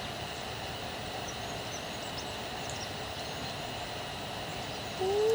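Outdoor ambience: a steady low rush of background noise with faint, scattered high chirps of birds. Near the end a loud, drawn-out voice begins.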